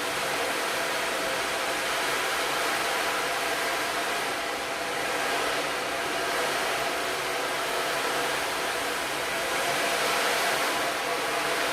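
Sound-bath instruments making a steady rushing wash, like an ocean drum or similar noise instrument, with faint sustained tones underneath, swelling and easing slowly.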